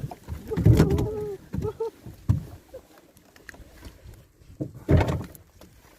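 Knocks and thumps against a small boat, loudest about a second in and again near five seconds, with a few short squeaky tones early on.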